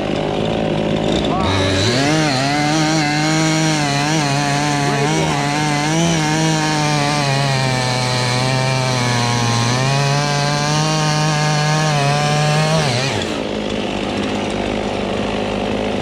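Chainsaw idling, then throttled up about a second and a half in and held at high revs for about eleven seconds. The pitch wavers and sags as the chain works through oak wood, then it drops back to idle.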